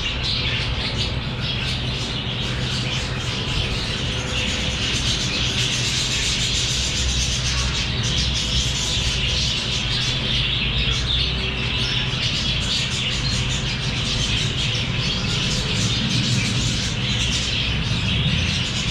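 A flock of lovebirds chattering, a dense and unbroken stream of high chirps over a steady low hum.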